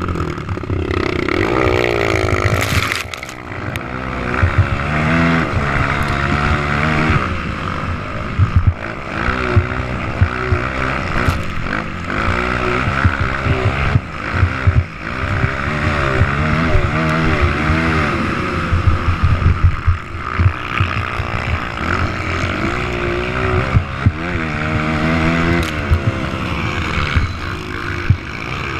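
Several motocross motorcycle engines revving up and down over and over as the bikes ride laps, their pitches rising and falling and overlapping.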